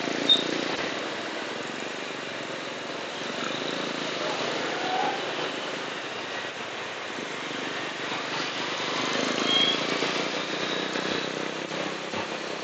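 Motorcycle riding in traffic: steady engine and road noise with a rushing hiss, swelling a little about nine to ten seconds in.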